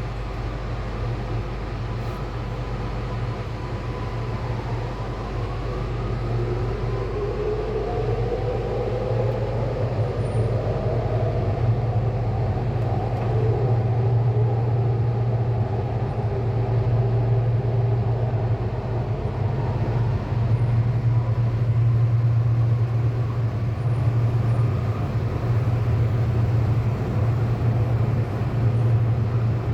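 Sydney Metro driverless train (Alstom Metropolis) running, with a steady low rumble. Over the first dozen seconds it grows louder and a motor whine rises in pitch as the train picks up speed, then it settles into an even run.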